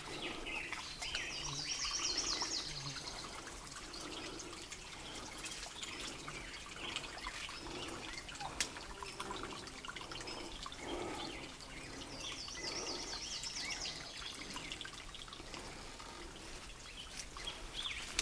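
A bird sings a quick run of high chirps twice, about ten seconds apart, over a faint trickle of water from the freshly dug-out spring.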